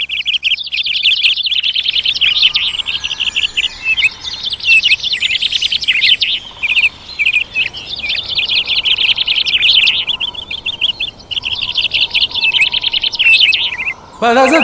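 A flock of small birds chirping, with rapid, high, overlapping chirps packed close together. The chirping stops just before the end.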